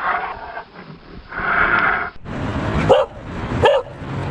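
A dog barking, two sharp barks about two-thirds of a second apart in the second half. Before them come two short, muffled calls from the brown bear clip.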